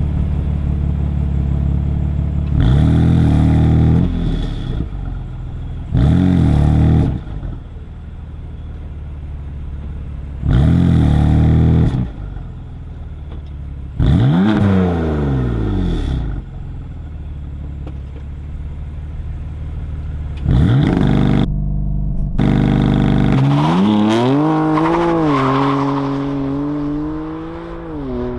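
BMW M4's twin-turbo straight-six idling, revved hard five times in short bursts. About 23 seconds in it pulls away at full throttle with launch control, its pitch climbing steadily, dipping once at an upshift and climbing again.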